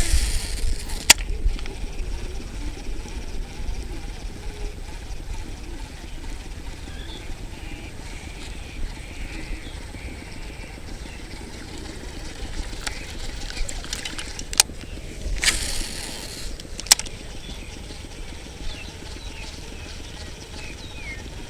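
Strong wind buffeting the microphone, a steady low rumble, with a few sharp clicks from handling and a short hiss about two-thirds of the way through.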